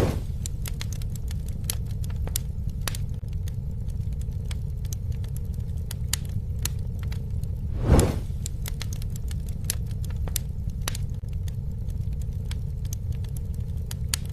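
Campfire crackling: a steady low rumble of the flames with frequent sharp snaps from the burning wood, and a louder whoosh at the start and again about eight seconds in.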